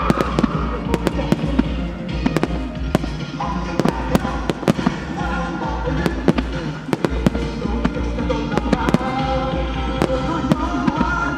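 Aerial firework shells bursting with many sharp bangs in quick, irregular succession, over music with sustained pitched tones.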